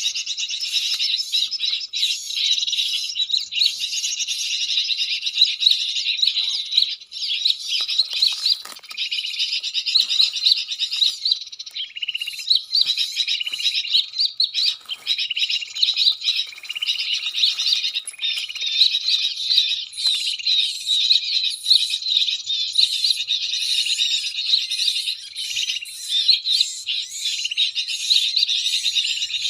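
Cinereous tits (gelatik batu) chirping and twittering in a dense, continuous stream of rapid high calls: the tit calls a trapper uses to lure the birds in.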